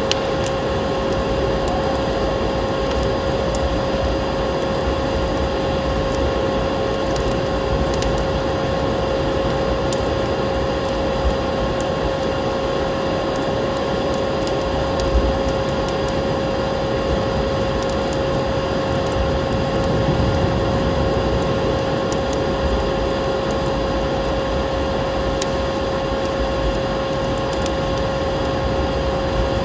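Vacuum cleaner motor running steadily with a constant whine, mixed with a wood fire's scattered crackles and a low wind-like rumble.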